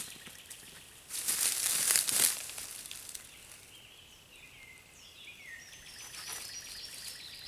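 Loud rustling and crinkling, like dry leaves or gear being handled, for about a second starting a second in. Then a bird sings faintly: a run of high whistled notes stepping down in pitch over several seconds.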